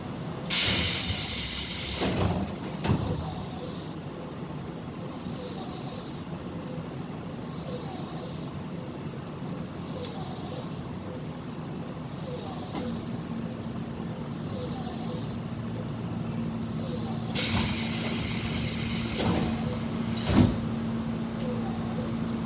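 Compressed air hissing aboard a Tobu 10050 series commuter train. A loud hiss starts suddenly about half a second in, shorter hisses repeat every second or two, and another long hiss comes near the end. A steady low hum joins about halfway, with a couple of short knocks.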